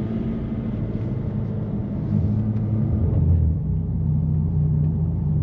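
BMW F80 M3's twin-turbo inline-six, on catless downpipes with the exhaust valves open, droning steadily at low revs while the car drives through slush. About three seconds in, the drone's pitch steps down a little.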